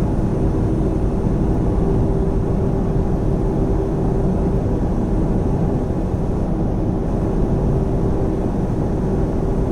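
Semi truck cab noise while cruising at about 55 mph: a steady low rumble from the engine and tyres on the road, with a steady tonal whine over it.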